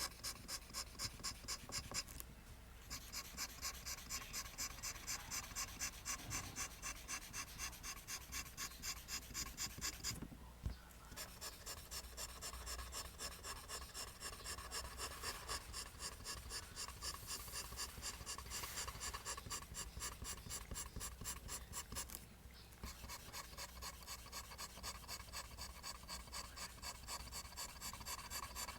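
Pencil drawing lines on paper: quick, even scratching strokes, about three a second, broken by three brief pauses.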